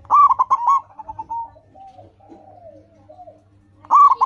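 Zebra dove (perkutut) singing its cooing song: a loud phrase of quick, rolling notes lasting about a second and a half, then fainter calls, with a second phrase beginning near the end.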